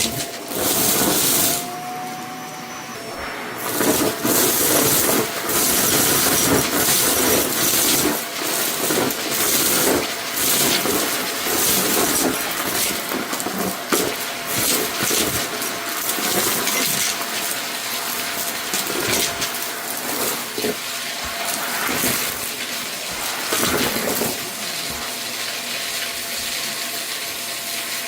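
Vacuum cleaner running with a steady motor whine, sucking up a scattered debris mix that crackles and rattles through the nozzle.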